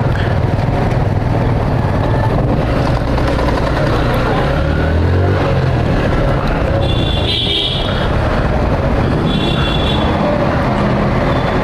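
Steady motor vehicle engine and traffic noise, with two short high-pitched tones about seven and nine seconds in.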